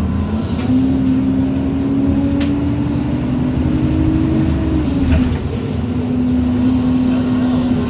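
MAN Lions City G articulated bus's differential and gearbox whine over the engine and road rumble. The single whining tone climbs in pitch for about four seconds as the bus gathers speed, dips about five seconds in, then holds steady.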